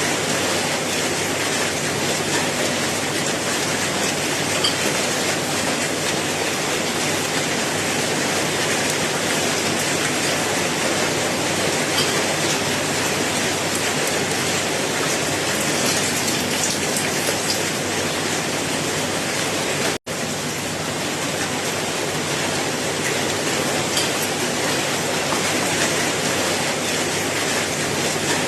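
Steady rain falling: a dense, even hiss with occasional single drop ticks. It cuts out for an instant about twenty seconds in.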